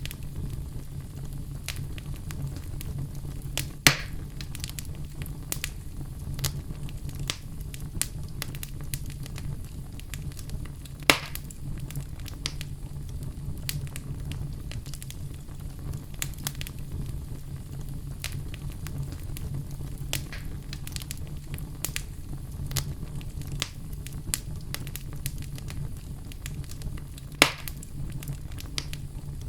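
Oak wood fire burning in a fireplace: steady crackling over a low rumble, with three loud pops about four, eleven and twenty-seven seconds in.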